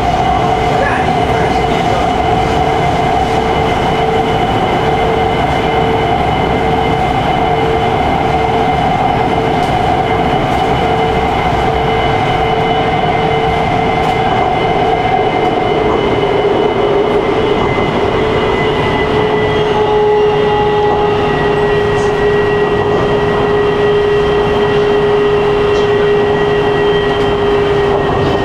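Wuxi Metro Line 1 subway train running through a tunnel, heard from inside the carriage: a loud, steady rumble of wheels on rail under a steady multi-tone motor whine. From about halfway through, the whine slowly falls in pitch as the train starts to slow for the next station.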